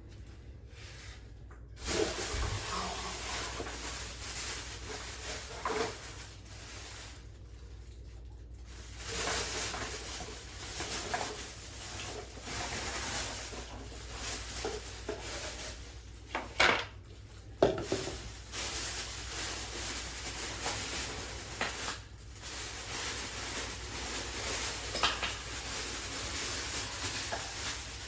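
Metal and glass parts of a water heater being handled, clinking and scraping over a steady hiss. About two-thirds of the way in come two sharp knocks, about a second apart.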